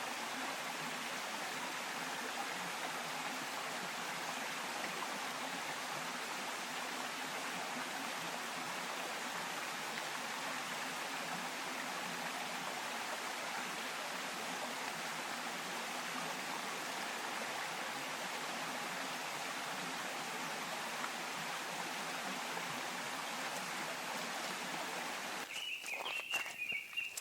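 Mountain stream flowing, a steady rush of water. A little before the end the water sound stops abruptly and gives way to a few sharp knocks and a high-pitched call.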